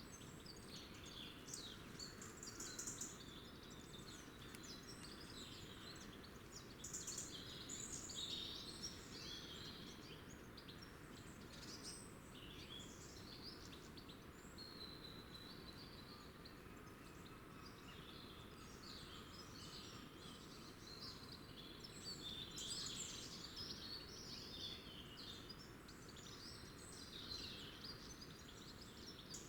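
Small birds chirping and twittering faintly and almost without pause, many short high calls overlapping, over a steady low background hiss.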